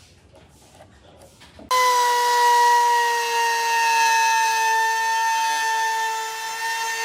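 A power tool running with a steady, high-pitched whine and hiss. It starts suddenly about two seconds in, and its pitch sags slightly as it runs.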